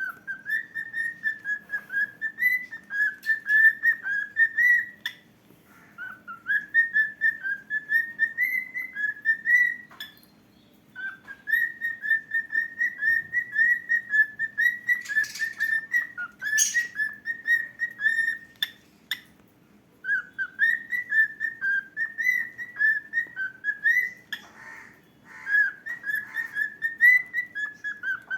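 Cockatiel singing: long runs of quick, short whistled notes, broken by brief pauses, with a few sharp clicks in the middle.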